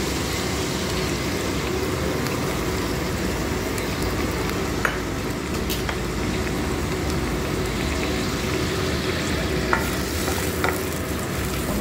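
Tomatoes and a wet spice paste sizzling steadily in hot oil in a stainless steel kadai, stirred with a wooden spatula, with a few sharp clicks in the second half.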